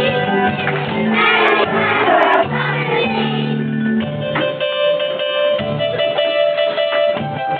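A stage song with several voices singing over instrumental accompaniment. The singing gives way to the instruments alone about halfway through.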